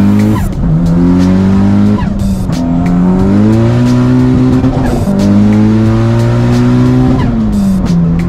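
Mitsubishi Lancer Evolution VIII's turbocharged four-cylinder engine pulling under acceleration, heard from inside the cabin, its pitch climbing and then dropping at each gear shift, about four times.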